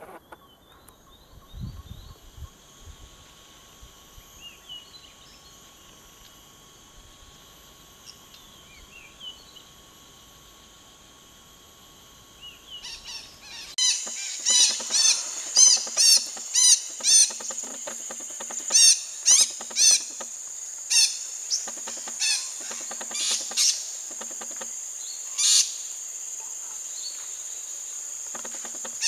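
A steady high insect drone with a few faint chirps. About halfway through it becomes louder and sharp, falling bird calls start, repeated roughly once a second over the drone.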